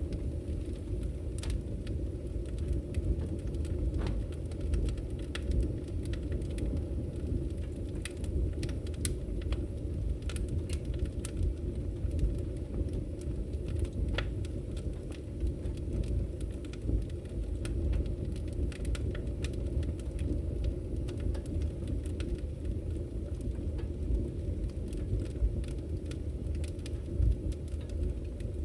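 Fireplace fire crackling: a steady low rumble of burning with scattered, irregular sharp pops and snaps.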